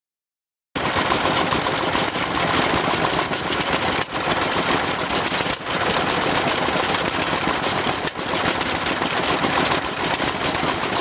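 1933 Moffat Virtue 4HP stationary engine running, a loud rapid stream of exhaust beats, starting suddenly under a second in.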